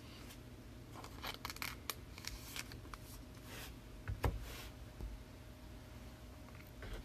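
Faint rustling and light clicks of trading cards and their packaging being handled, with a soft knock about four seconds in.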